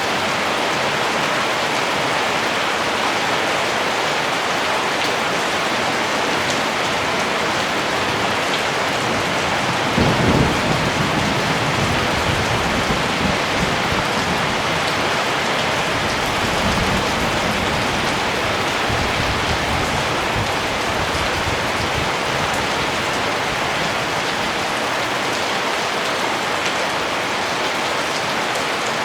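Steady rain falling. About a third of the way in, a low rumble of thunder starts suddenly and fades over several seconds.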